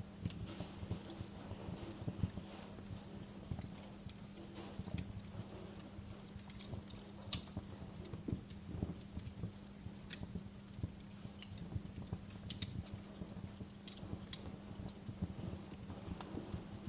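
Wood fire crackling, with irregular sharp pops and snaps over a low rumble and a steady low hum.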